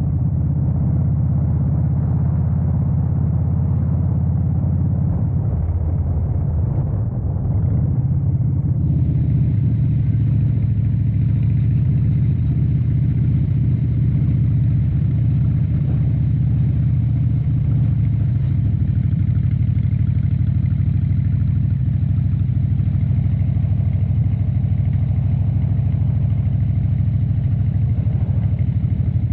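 2013 Harley-Davidson Dyna Wide Glide's 103-cubic-inch V-twin engine running steadily at low revs, dipping briefly about seven seconds in.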